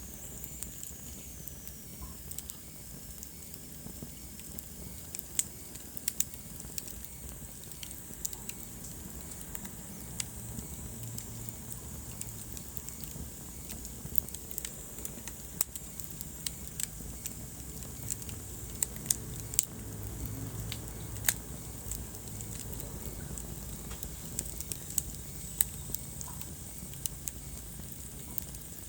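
Wood fire in a fireplace crackling, with frequent sharp pops scattered irregularly over a low rumble.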